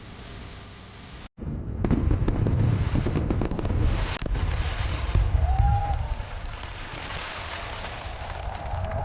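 Fireworks going off: a dense run of crackling pops over low booming rumble, starting loud about two seconds in and easing off after about six seconds.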